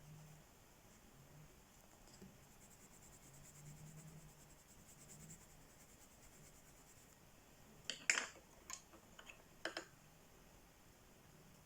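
Faint scratching of coloring strokes on paper. About eight seconds in comes a cluster of sharp clicks and taps, with two more just before ten seconds; these are the loudest sounds.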